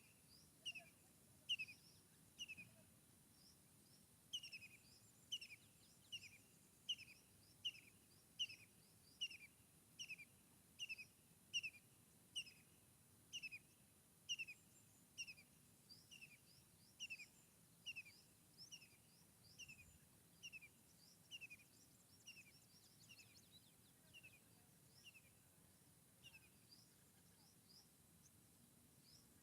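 A bird calling repeatedly, a short falling chirp about every half second to second in a long steady series, over faint background hiss.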